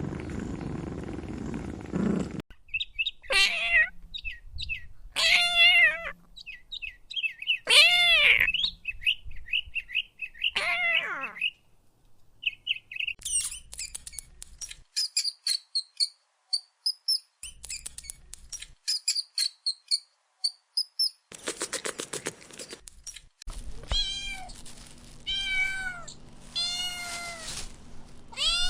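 Kittens meowing, about nine separate mewing calls each rising and then falling in pitch, with runs of short high chirps between them in the middle. A low rough sound fills the first two seconds.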